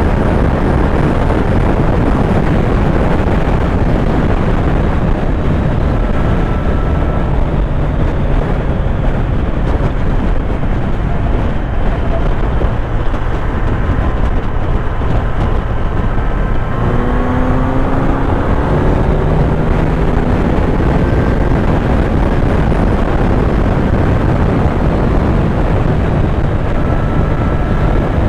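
Kawasaki Z900's inline-four engine running under way, with heavy wind noise on the microphone. About 17 seconds in, the engine note climbs in pitch as the bike accelerates.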